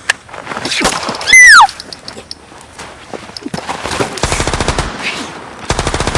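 Machine-gun fire in two rapid bursts of automatic shots, each about a second long, in the second half. Earlier, about a second in, comes a loud, short whistle falling in pitch.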